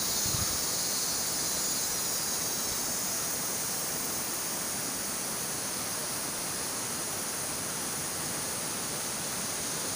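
Steady outdoor ambience high in a tropical rainforest canopy: an even rushing hiss with no distinct events, brightest in the high treble.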